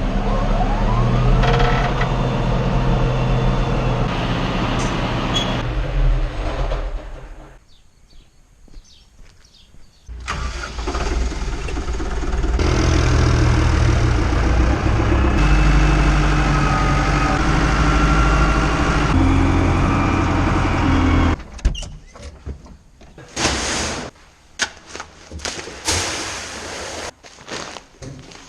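Farm tractor engine running in several short cut-together stretches of differing pitch. It drops out for a couple of seconds about a third of the way in, and near the end gives way to a quieter stretch of scattered knocks and clicks.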